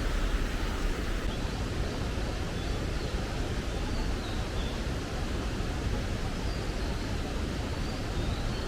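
Steady rush of flowing water in a mountain stream, an even noise that does not let up, with a few faint high chirps now and then.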